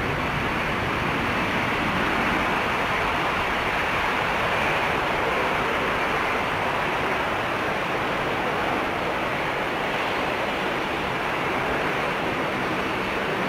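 Jet airliner engines making a steady, even rushing noise with no change in pitch.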